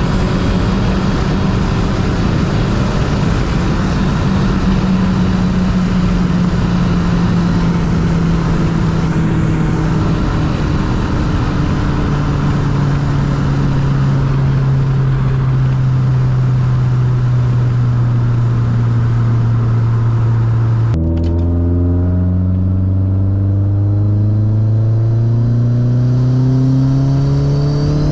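Turbocharged 2.3-litre four-cylinder of a straight-piped Mazdaspeed3 running on the road, its engine note sinking slowly in pitch for most of the stretch. After an abrupt break about 21 seconds in, the note climbs steadily as the car accelerates through a gear.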